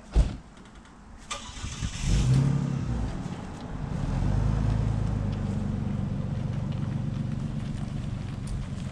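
A sharp knock, then an engine is started: it catches about two seconds in with a brief rev and settles into a steady idle.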